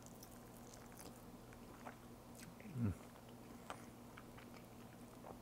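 A man biting into and chewing very tender reheated barbecue rib meat: faint soft mouth clicks and squelches, with a short, low, falling hum from him a little under three seconds in.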